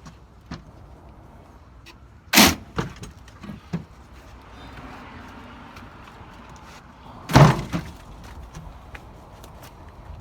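Old wooden window sash knocking and bumping in its frame as it is worked loose and pulled out: two loud knocks about five seconds apart, with lighter clicks and taps between.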